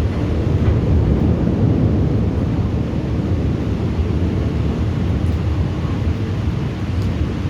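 Long, low rumble of thunder rolling on for several seconds, strongest in the first couple of seconds and easing a little after, over a steady hiss.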